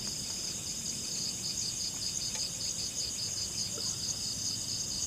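Insects chirping in a steady, high-pitched pulsing chorus, several pulses a second.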